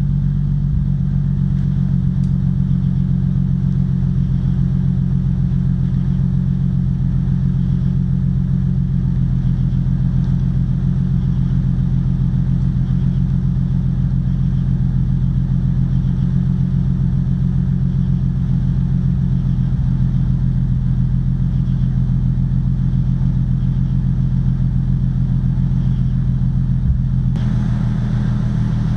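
Nissan 350Z's 3.5-litre V6 idling steadily after a cold start, heard through an Invidia Gemini true-dual cat-back exhaust with high-flow catalytic converters: a deep, even drone. The note shifts slightly near the end.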